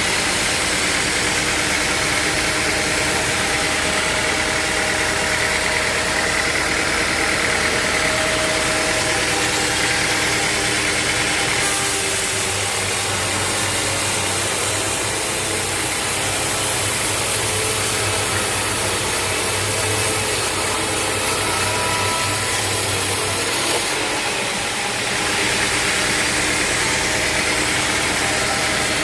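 Sawmill machinery running steadily, with a change in its sound for a stretch in the middle.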